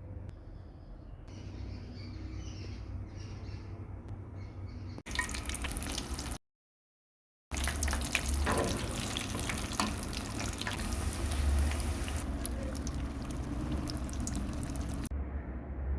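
Water running from a kitchen tap into a sink, a steady hiss that stops for about a second a third of the way in and then comes back louder.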